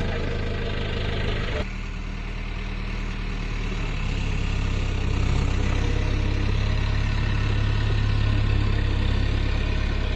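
Tractor diesel engine running steadily, with an abrupt change in its sound about a second and a half in, then growing louder over the next few seconds.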